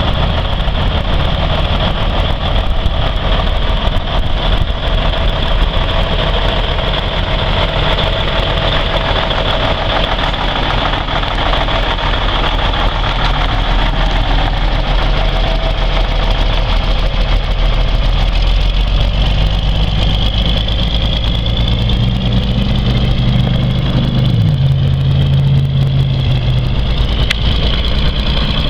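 Cummins N14 Plus inline-six diesel of a 2001 Kenworth semi tractor idling steadily; late on, the engine speed rises a little and then drops back.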